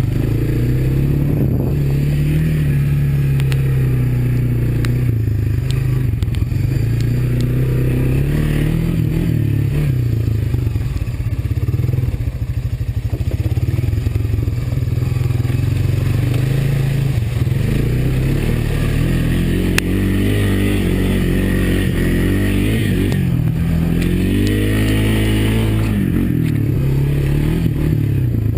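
Single-cylinder four-stroke engine of a Honda ATV running as it rides, its pitch rising and falling with the throttle. In the last third it is revved up and down several times in quick succession.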